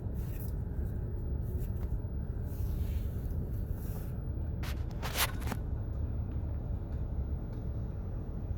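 Steady low rumble of a car driving, with a short hissing rustle about five seconds in.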